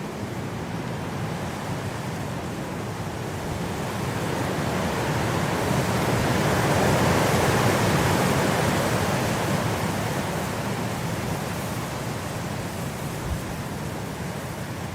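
Blizzard wind: a steady rushing noise that swells into a gust about halfway through, then eases off.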